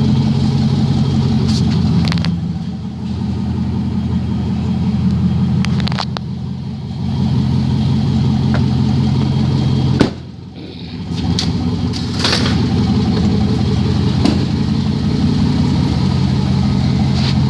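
Chevrolet 5.3-litre V8 idling steadily, its exhaust open because it is cut off after the catalytic converters. The level dips briefly three times, with a sharp click about ten seconds in.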